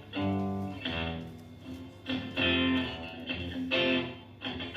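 A guitar strumming separate chords, about half a dozen strikes that each ring out and fade before the next.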